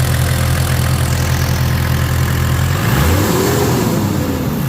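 Toyota 1HZ 4.2-litre straight-six diesel idling while running on Liqui Moly Diesel Purge in place of fuel, as part of an injector-cleaning treatment. About three seconds in, the engine is revved briefly, its pitch rising and falling back, before settling to idle.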